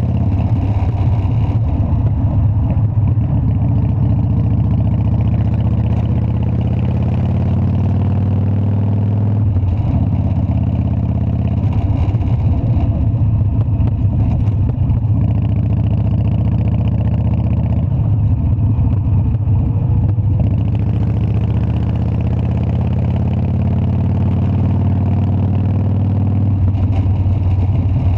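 Harley-Davidson Dyna's air-cooled V-twin engine running steadily, with a few slight changes in engine speed.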